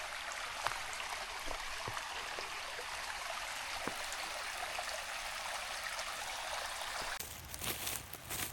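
Small woodland stream flowing, a steady rushing hiss of water. About seven seconds in it cuts off abruptly, and a few uneven knocks and rustles follow.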